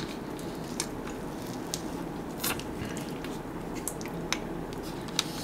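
Close-miked eating: bites into a foil-wrapped snack and chewing, with a few sharp clicks and crackles scattered through.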